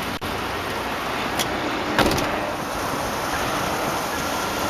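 Chevrolet Avalanche's 5.3-litre Vortec V8 idling steadily, with a single thump about two seconds in.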